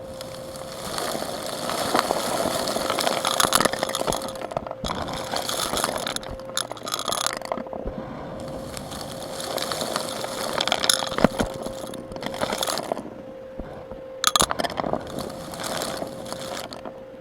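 Vacuum cleaner sucking up grit and small stones, with scraping and scattered clinks and rattles as the debris is pulled in; the intake noise swells and dips as the head moves.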